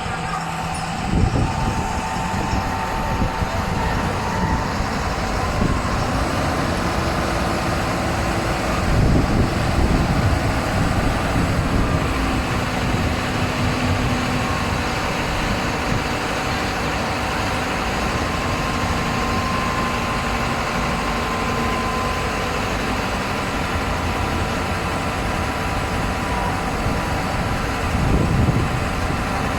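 Self-loading concrete mixer running, a steady engine-and-machinery noise that swells briefly a few times.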